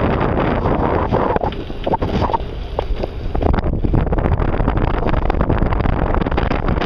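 Wind buffeting the microphone on a moving bicycle: a heavy, low rumbling noise that eases briefly about one and a half seconds in and returns after about three and a half seconds.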